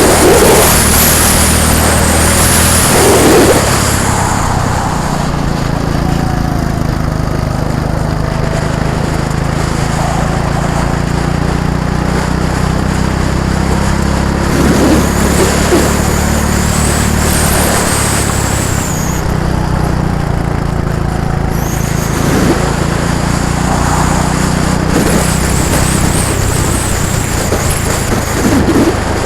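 Go-kart engines running as karts lap the track, a steady engine drone with high whining notes that rise and fall as karts rev through the corners and swell as they pass.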